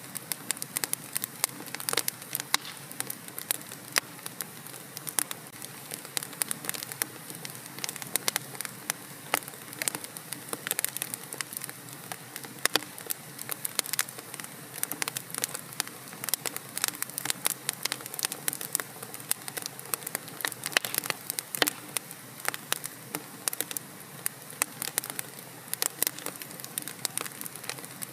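Wood fire crackling in a fireplace: a steady hiss with dense, irregular pops and snaps, several each second.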